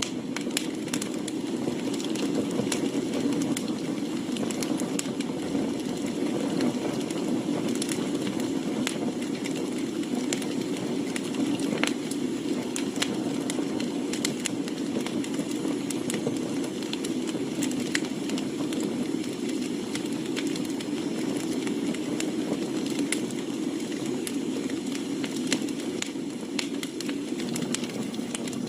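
Wood campfire burning: a steady low rush of flame with scattered crackles and pops from the burning firewood.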